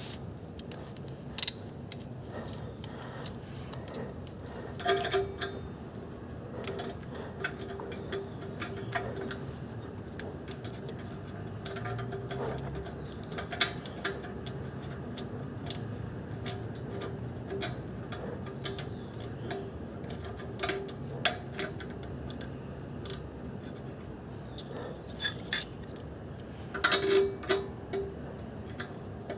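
Light metallic clicks and clinks at irregular intervals, typical of tools and metal parts being handled while parts in a car's engine bay are tightened, over a steady low hum.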